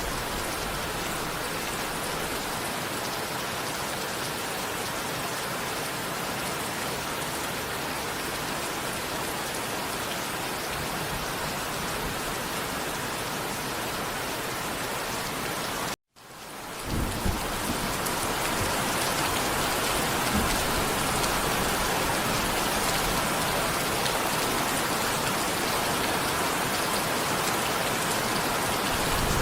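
Steady, heavy rain falling, an even hiss. About halfway through it cuts out to silence for an instant at an edit splice, then resumes slightly louder, with a brief low rumble just after.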